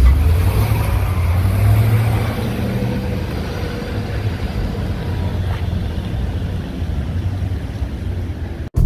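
Outdoor street noise: a steady low rumble of traffic, cut off abruptly just before the end.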